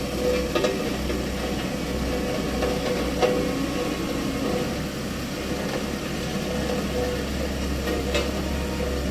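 A heavy vehicle's engine running steadily at a low speed, with three brief sharp knocks, about half a second, three seconds and eight seconds in.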